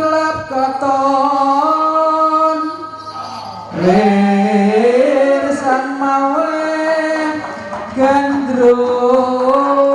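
Javanese song for a jatilan dance: a singer holds long, drawn-out notes over the troupe's accompanying music, with a new phrase that wavers and bends in pitch starting about four seconds in.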